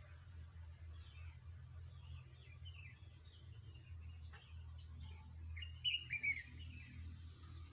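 Birds chirping faintly in short, falling calls, loudest about six seconds in, over a faint steady high-pitched drone and a low hum.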